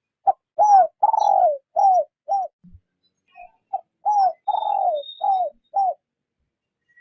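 A caged decoy spotted dove cooing: two phrases of about five low coos each, each coo dipping slightly in pitch, with a short pause between the phrases. Faint high chirps of another small bird sound in the background.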